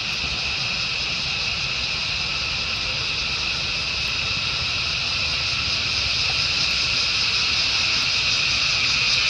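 Steady high-pitched drone of an insect chorus, growing slowly louder, over a low rumble.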